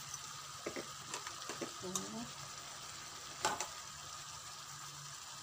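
Chicken and potato pieces sizzling in a pan on a gas hob, with a few sharp clicks, the clearest about two seconds in and again near three and a half.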